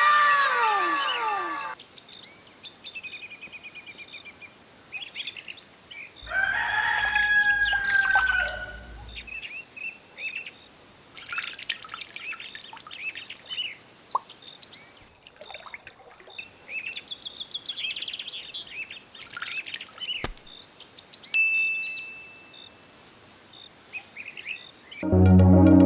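Songbirds chirping and whistling in short scattered calls, with a rooster crowing about seven seconds in. Electronic music with a steady beat starts just before the end.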